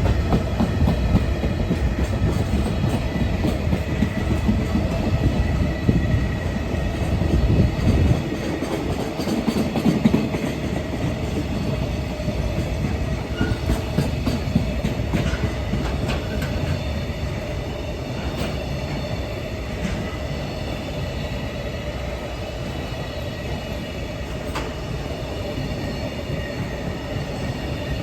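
Container freight train rolling past, a steady rumble of wagon wheels on the rails with scattered clicks over rail joints and a light steady wheel whine, easing slightly toward the end.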